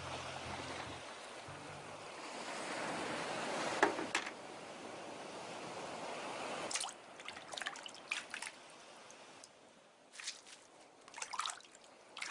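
Sea waves washing for about seven seconds, then scattered drips and small splashes of water.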